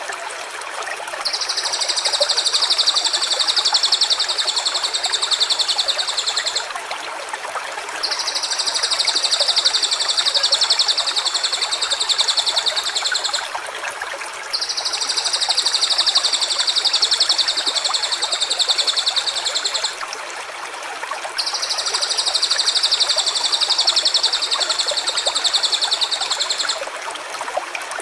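A high, rapid buzzing trill, sounded as four long phrases of about five seconds each with short gaps between, over the steady rush of a stream.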